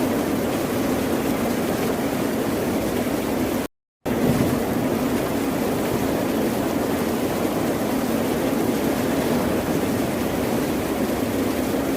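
Ocean surf, a steady wash of waves. About four seconds in, the sound cuts out completely for a fraction of a second, then resumes.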